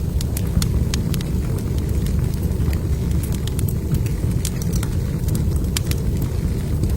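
Log fire crackling, with frequent sharp irregular pops over a steady low roar.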